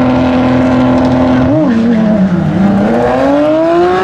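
McLaren Senna and Lamborghini Aventador SVJ engines held at steady high revs on the start line, then launching about a second and a half in: the engine note dips and then climbs steadily as the cars accelerate hard away.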